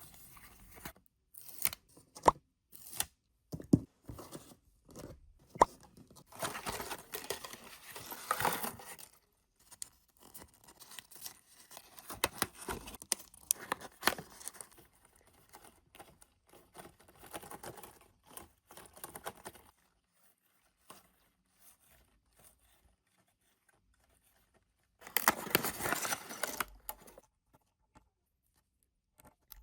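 Paper being handled, cut and torn for a papercraft figure: irregular small clicks and crinkles, with longer tearing strokes about a third of the way in and again near the end.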